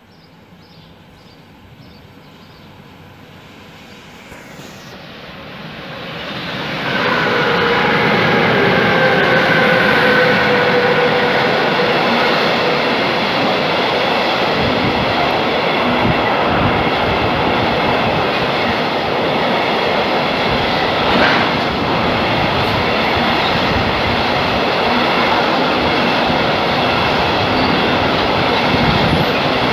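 Freight train passing through without stopping: it approaches, growing louder over the first seven seconds, with a whine that falls slightly in pitch as the locomotive goes by, then the steady rolling rumble of loaded car-carrier wagons on the rails.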